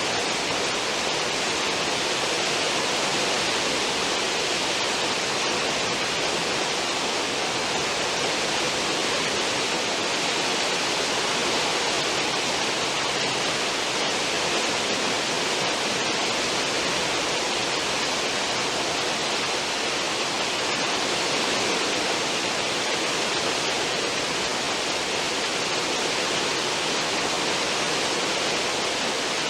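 A cruise ship's stern wake: churning water making a steady, unbroken rushing hiss.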